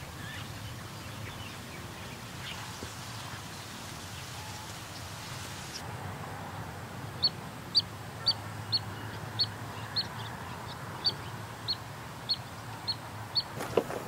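A bird calling in a quick, regular series of short, sharp, high chirps, about two a second, starting about halfway through. Before that there is only steady faint outdoor background noise.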